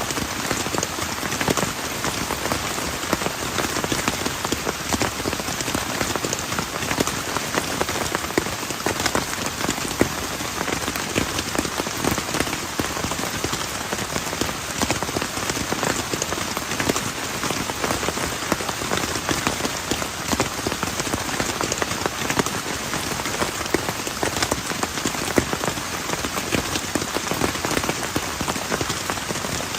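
Heavy rain falling steadily on a plastic tarp: a dense, even hiss of countless individual drop hits.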